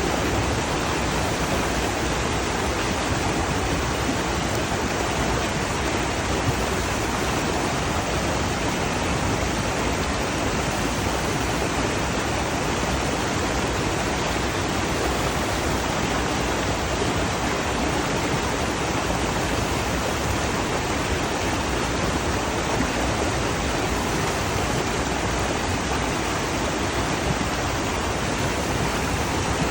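Running water rushing steadily, an even unbroken noise with no pauses or changes.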